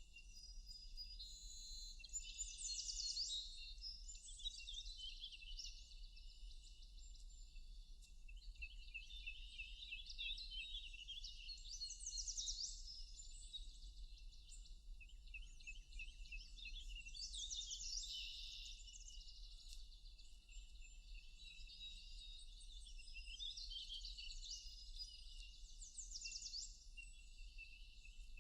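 Several songbirds singing together in a forest dawn-chorus style, with high chirps and quick repeated trills overlapping one another.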